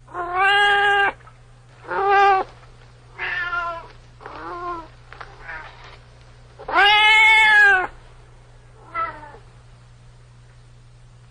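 Domestic cat meowing repeatedly: about seven separate meows, each rising and falling in pitch. The longest and loudest comes about seven seconds in. A steady low hum runs underneath.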